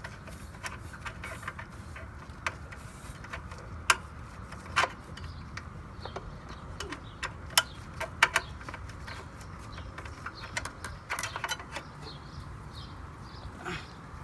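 Scattered sharp metallic clicks and taps of hand tools and panel parts as an outdoor air-conditioner unit is opened up, over a steady low hum.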